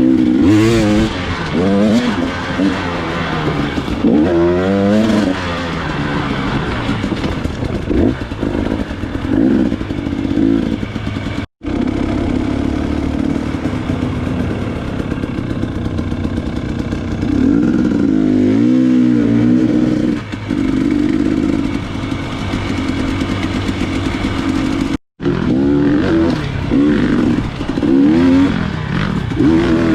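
Dirt bike engine revving up and down repeatedly, its pitch rising and falling with the throttle as it rides trail. The sound drops out for an instant twice.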